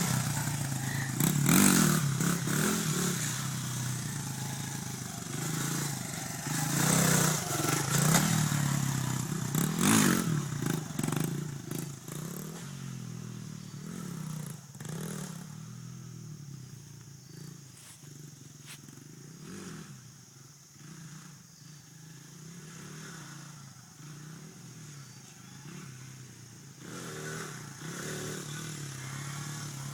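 Dirt bike engine revving up several times in the first dozen seconds, then dropping to a fainter, distant-sounding drone, and growing louder again near the end.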